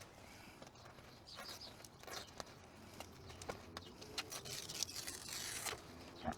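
Faint rustling, crinkling and light tapping from handling a sheet of self-adhesive insulation / sound-deadening material as it is positioned and pressed into place, with a longer crackly rustle about five seconds in.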